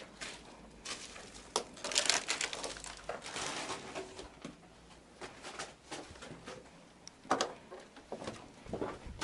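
Footsteps crunching and scuffing over debris on a floor, with scattered clicks and knocks. The crunching is busiest about two to four seconds in.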